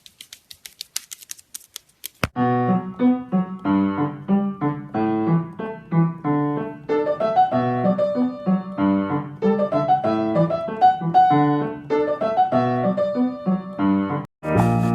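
Faint rapid ticking, about five clicks a second, for the first two seconds, then piano music that stops suddenly near the end before other music starts.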